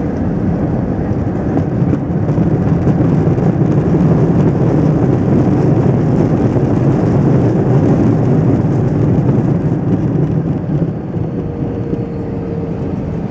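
Airbus A320-232's IAE V2500 turbofans in reverse thrust during the landing rollout, heard from inside the cabin: a loud, deep roar that swells about two seconds in, holds, then eases off near the end as the engines spool down.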